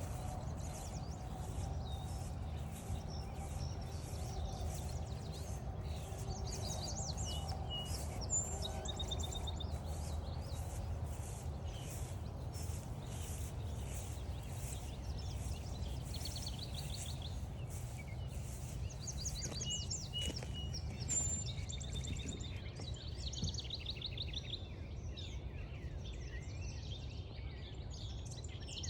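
Several wild birds singing, with trilled songs that come and go, over a steady low rumble.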